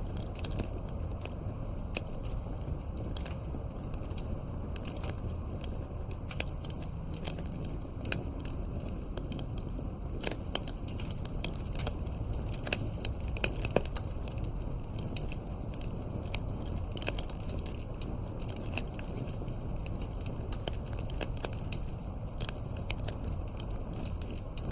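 Wood campfire crackling: many irregular sharp pops and snaps over a steady low rumble of burning.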